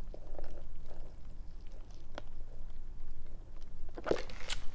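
A person chewing and biting food, with small crunches scattered through and a louder crunchy bite about four seconds in.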